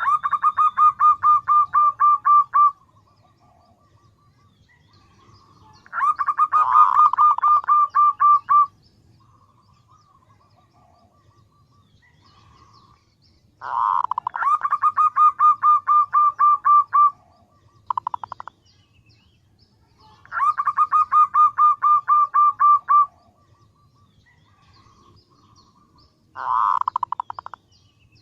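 Female zebra dove (perkutut) calling a male. It gives repeated bouts of rapid pulsed cooing trills, each about two to three seconds long and coming every six seconds or so, with softer trills in between.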